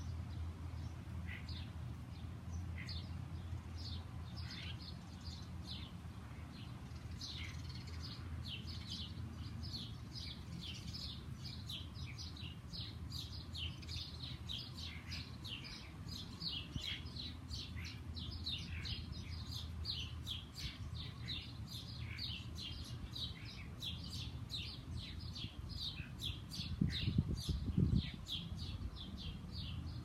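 Small songbirds chirping, many short high chirps from several birds, busier from about seven seconds in, over a steady low hum. A brief low rumble near the end is louder than the chirps.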